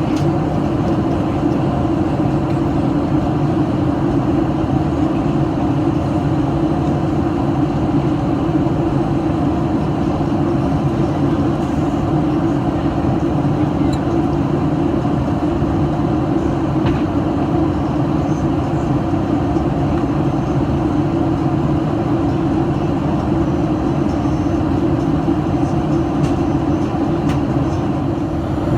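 Steady low drone inside the cabin of a Boeing 737-800 in flight: its CFM56-7B engines and the airflow over the fuselage, even and unchanging throughout.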